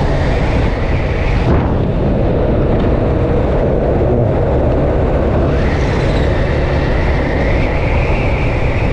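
Yamaha FZ V2 motorcycle being ridden at road speed: steady, loud wind buffeting on the microphone over the engine running.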